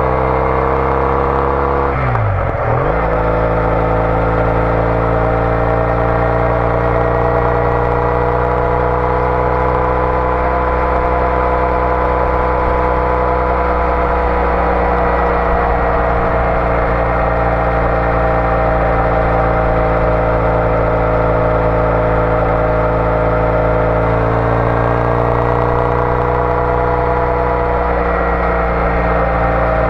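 Triumph Bonneville T214's parallel-twin engine through an aftermarket TOGA exhaust, riding at a steady cruise. About two seconds in the engine note drops sharply and picks back up; after that the pitch rises and falls slowly.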